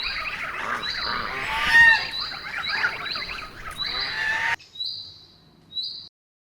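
A flock of birds calling with goose-like honks over repeated high chirps. The calls stop abruptly about four and a half seconds in, leaving a few faint chirps.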